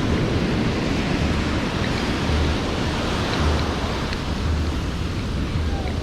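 Ocean surf washing onto the beach, heard as a steady rushing noise, with wind buffeting the microphone in low rumbling gusts.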